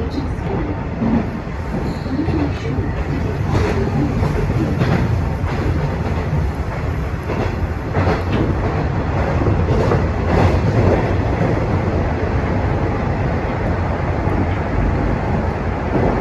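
Hanshin Railway express train running on the rails, heard from inside the front cab: a steady low rumble of wheels and running gear, with irregular sharp clicks from the wheels over the track, as the train runs down into a tunnel.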